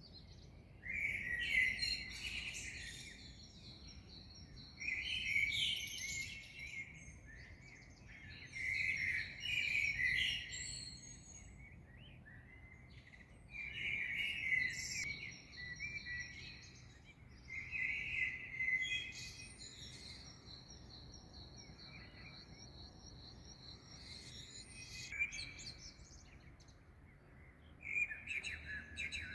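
Songbirds singing at dawn: a phrase of song every few seconds, some ending in a high drawn-out trill, over faint low background noise.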